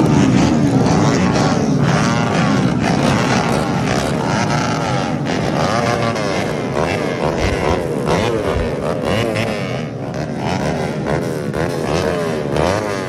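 Several motocross bikes' engines racing, their pitch repeatedly rising and falling as they rev and shift, overlapping one another.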